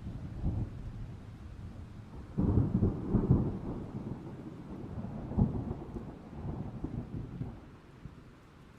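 Thunder rolling over steady rain: a deep rumble swells sharply about two and a half seconds in, cracks again a few seconds later, then fades away near the end.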